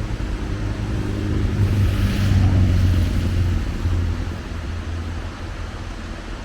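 A motor vehicle's engine humming as it passes, loudest about two to three seconds in and then fading away.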